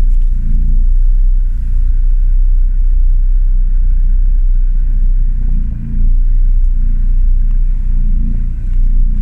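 Off-road 4x4's engine running at low revs as it crawls forward in first gear: a steady, low rumble that swells and eases slightly, with a short dip about six seconds in.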